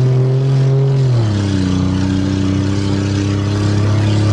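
Car engine running under way at a steady speed. The revs drop about a second in, then hold steady at the lower pitch.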